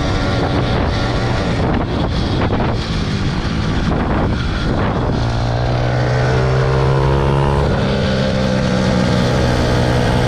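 Two-stroke engine of a motorized bicycle running while riding, with wind on the microphone. About halfway in, its note settles into a strong, steady hum.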